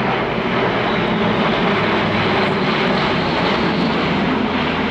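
Airbus A400M's four turboprop engines running steady and loud in a steep nose-down descent, the propellers in fully fine pitch working as an air brake.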